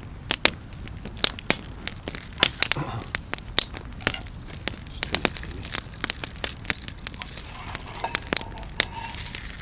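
Wood campfire crackling, with sharp irregular pops several times a second.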